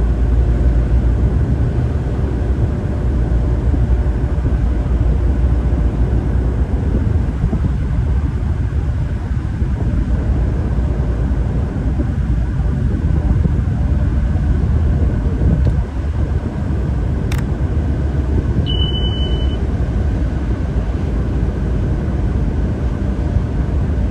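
Tugboat engine running steadily with a deep, even rumble. A single click and then a short high beep come about three-quarters of the way through.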